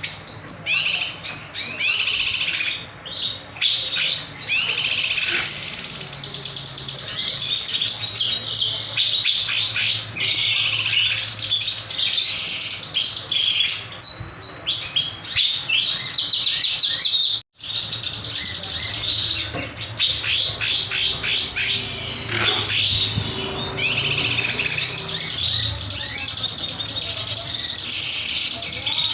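Kinoy songbird singing continuously in rapid, sharp, repeated chirps and trilled phrases, with one brief sudden break about two-thirds of the way through.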